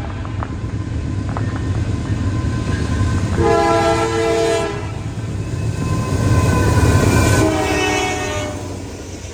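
Diesel locomotive's multi-chime air horn sounding two blasts over the rumble of a passing train, the second blast a little lower in pitch as the train goes by. The train's rumble is loudest just before the second blast and fades toward the end.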